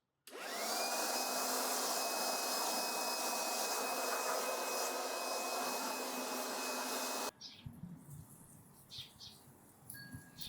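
An electric motor spins up with a quickly rising whine, then runs steadily with a high whine over a loud hiss for about seven seconds before cutting off abruptly. Faint bird chirps follow.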